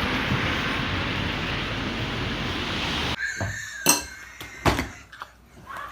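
Steady outdoor street noise, which cuts off suddenly about three seconds in. It is followed by a few separate sharp knocks and clinks in a quiet room.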